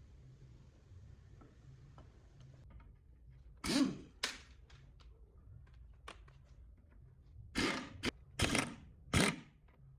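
A handful of sharp knocks and thunks, as of hard objects being handled and set down: two about four seconds in, then a quick run of four from about seven and a half seconds in, with faint ticks between.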